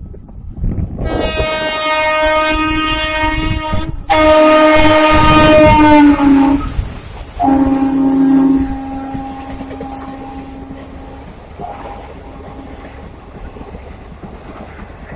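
Locomotive horn giving long blasts as a train passes. A first blast about a second in, a louder one from about four seconds whose pitch drops as it goes by, then a shorter, lower blast. After that the steady rumble and clatter of the passing train fades away.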